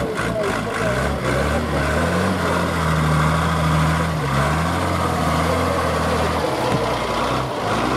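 Heavy truck engine running under load, its pitch rising and falling a few times, easing off near the end.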